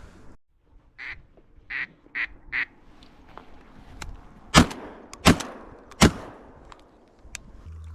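A few short duck quacks, then three shotgun shots in quick succession, about two-thirds of a second apart.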